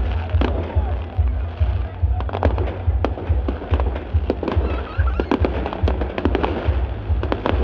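Aerial fireworks going off overhead: a rapid, continuous string of sharp bangs and crackles. Music with a heavy pulsing bass plays underneath.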